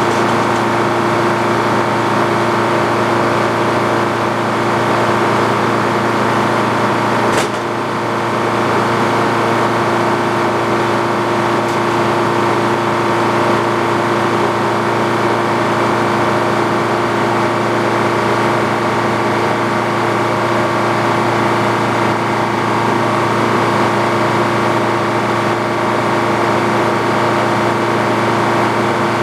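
Antique Frick sawmill running steadily, its engine and machinery giving a constant, even drone with several steady tones. A single short sharp click about seven seconds in.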